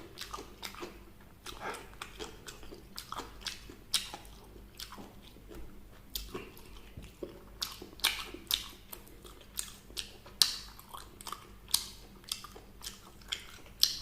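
Close-miked eating of crunchy fried chicken: sharp, irregular crunching bites and chewing, several a second, growing louder in the second half.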